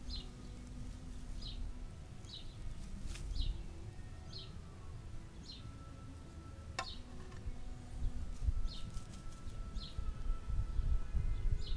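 A small bird calls the same short, high chirp over and over, about every three-quarters of a second, over a low rumble. A single sharp click comes about two-thirds of the way through.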